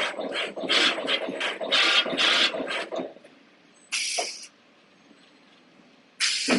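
CNC turret punch press hitting a rapid series of punches, about three a second for three seconds. Then two short hisses, one about four seconds in and one near the end.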